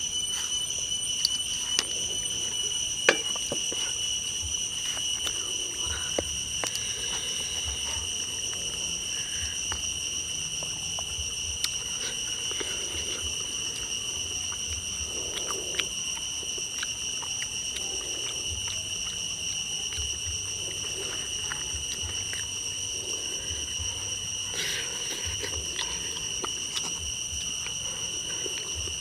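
Insects droning in one steady, high-pitched tone throughout, with scattered small clicks and knocks.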